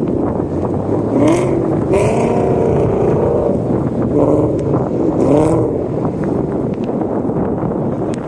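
Car engine revving and pulling hard, its pitch rising and holding in two surges, over steady rumbling road and wind noise.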